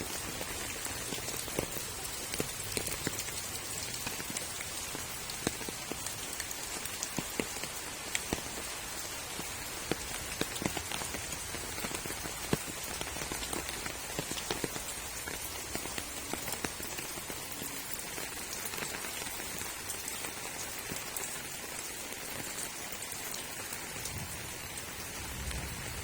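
Rain and water dripping onto surfaces: a steady hiss with irregular sharp drip taps, more frequent in the first half.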